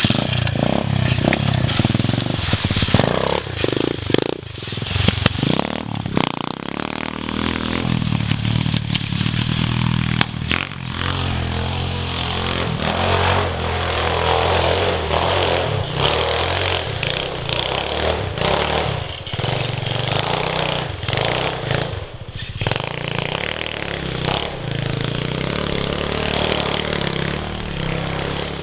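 Dirt bike engine running.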